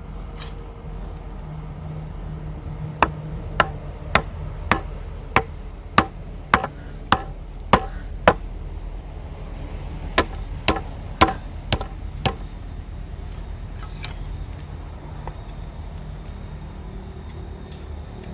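Sharp tool strikes, as in chopping or hammering wood, evenly paced at a little under two a second: about ten in a run, a short pause, then about five more. A steady high insect trill, as of crickets, runs underneath.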